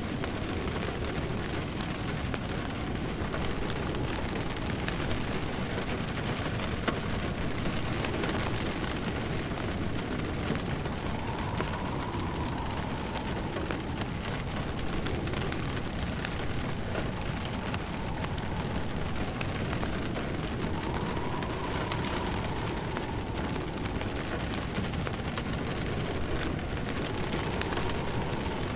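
Steady rain pattering, with a wood fire crackling now and then and a faint wind howl that rises and falls a few times.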